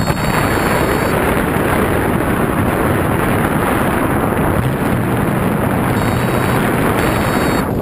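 Steady, loud wind rushing over the microphone of a pilot in flight, with a few faint high beeps near the start and again near the end.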